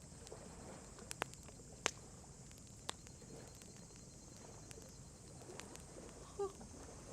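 Wood campfire crackling: a few sharp, isolated pops and snaps over a faint steady background hiss, with a short pitched sound near the end.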